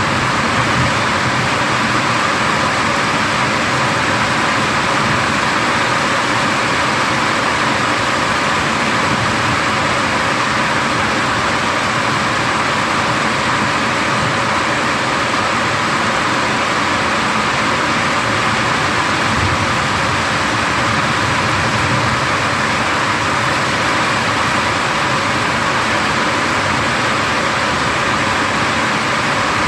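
Heavy rain pouring in a thunderstorm, a loud steady hiss that holds at the same level throughout.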